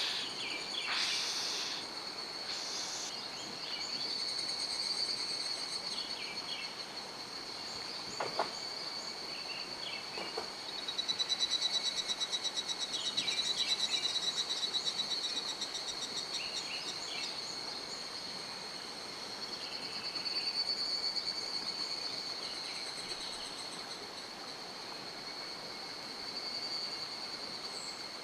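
Insects trilling in a steady, rapidly pulsing high chorus that swells louder in the middle, with scattered short bird chirps and one sharp click about eight seconds in.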